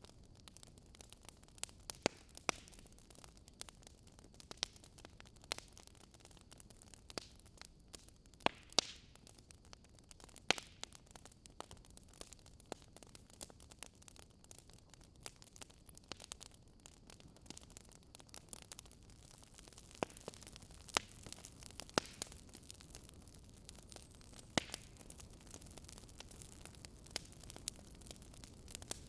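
Fire crackling softly: irregular sharp pops and snaps, several a second at times, over a faint steady hiss.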